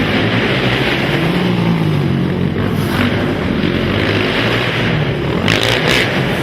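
Several racing quad (ATV) engines running hard on an indoor track, their pitch rising and falling as riders rev and back off. There is a brief sharper burst about five and a half seconds in.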